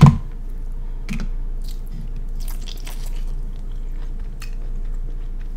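A person chewing and biting food close to the microphone, with scattered soft wet smacks and clicks of the mouth, over a steady low hum.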